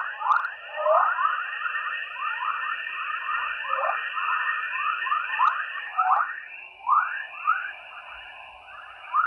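Sonified recording of natural radio waves in Earth's atmosphere: a dense chorus of quick falling whistles, several a second, over a steady high tone.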